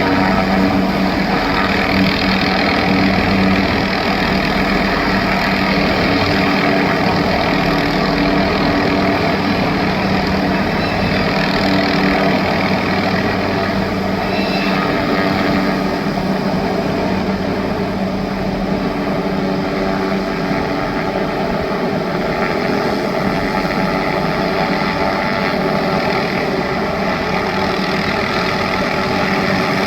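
MD 500 helicopter's turbine engine and rotor running steadily at a work hover, holding one even pitch without revving up or down.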